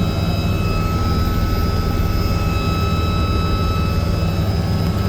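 Helicopter running close by: a steady heavy rotor thrum with a high, even turbine whine over it.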